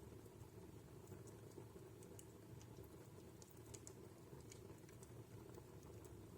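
Wood fire in a fireplace crackling faintly: small irregular snaps and pops over a steady low background.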